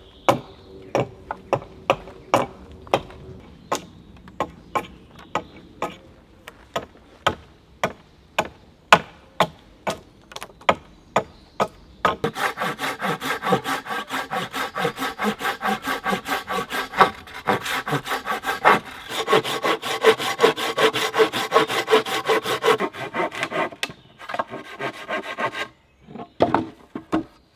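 Wood being worked by hand: a run of sharp blows on wood, about two a second, then a hand saw cutting through timber in quick, even strokes from about halfway, and a few more blows near the end.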